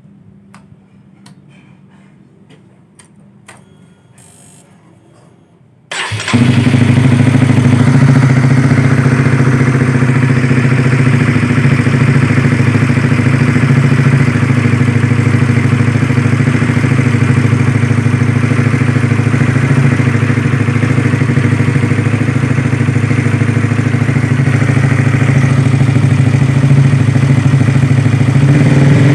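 Honda CBR150R single-cylinder engine breathing through an old Suzuki Satria F muffler, started about six seconds in and catching at once, then idling steadily. Before the start, only a few faint clicks.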